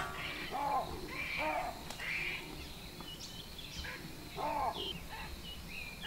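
Birds calling: short, harsh, arching calls repeated about once a second, with faint higher chirps of other birds between them.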